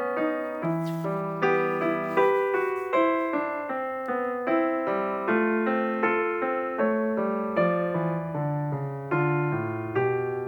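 Background music: a slow piano piece in minuet style, with notes played evenly at about two to three a second.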